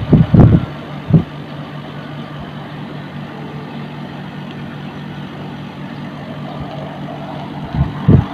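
Outdoor unit of an LG S12LFG split air conditioner running, a steady hum with an even whoosh of air. A few loud low thumps come in the first second and again just before the end.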